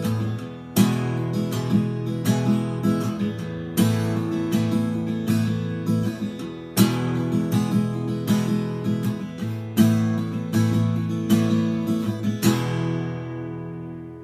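Steel-string acoustic guitar on new D'Addario EXP19 strings, played with a hard chord about every three seconds and lighter picked notes in between. The last chord is left to ring out and fade near the end.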